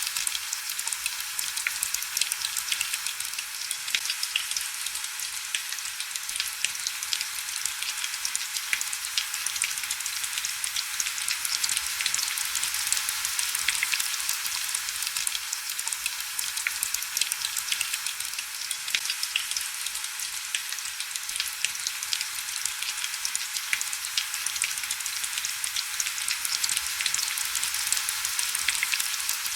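Heavy rain falling steadily: a dense, high hiss full of fine crackling drop hits, with almost no low rumble.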